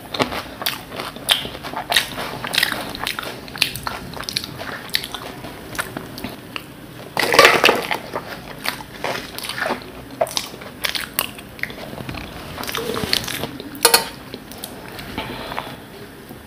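Close-up chewing and crunching of fuchka (pani puri): crisp hollow puri shells crackling between the teeth in quick irregular bursts. A louder crunching bite comes about seven seconds in, and a single sharp click near the end.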